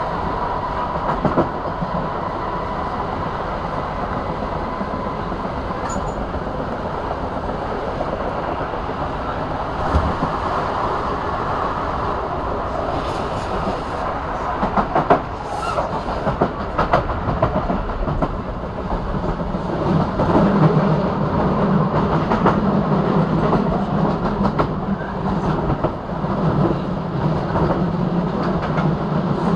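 A passenger train running on the rails, heard from inside the carriage: steady running noise with scattered clicks of the wheels over rail joints. About two-thirds of the way through, a low hum grows louder.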